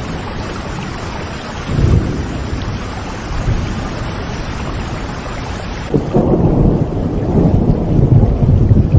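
Steady heavy rain with rolling thunder. A low rumble swells about two seconds in. About six seconds in, the bright hiss of the rain suddenly dulls and a louder, deep thunder rumble takes over.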